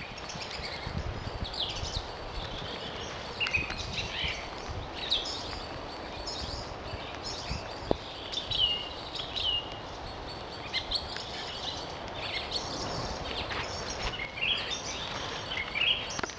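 Several songbirds chirping and singing with short, scattered calls over a steady background hiss, with low thuds of footsteps on the forest floor.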